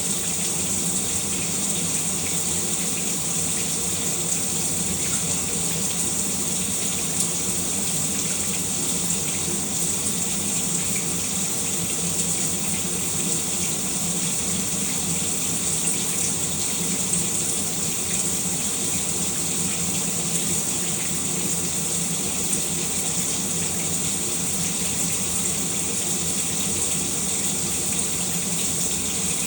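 Shower running: a steady spray of water falling without a break.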